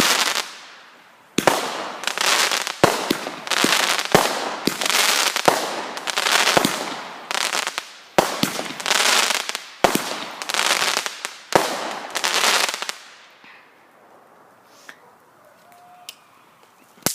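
Consumer fireworks going off in a rapid series of sharp bangs, each trailed by a crackling hiss, for about thirteen seconds. They then die away to a faint hiss, and one more bang comes near the end.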